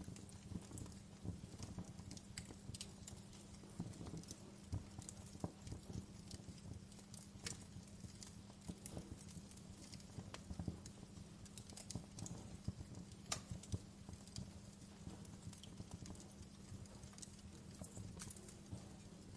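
Wood fire crackling, with irregular sharp pops and snaps over a soft low rumble of burning.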